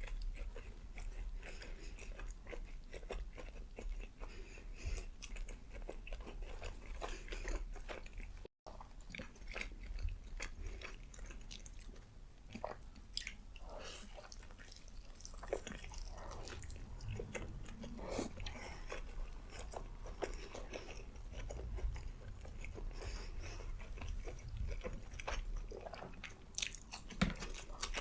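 Close-miked mukbang eating sounds: a person biting and chewing burgers and fries, with many small wet clicks and crunches. The sound cuts out for an instant about a third of the way in.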